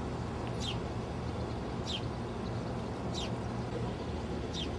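A bird repeating a short, high call that slides down in pitch, four times at even intervals of about a second and a quarter, over a steady low background rumble.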